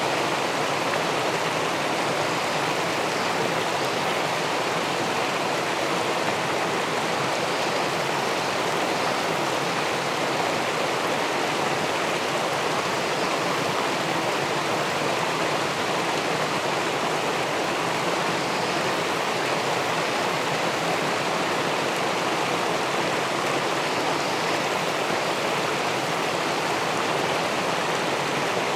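Steady rush of river water pouring over a small weir into the pool below, an even, unbroken noise.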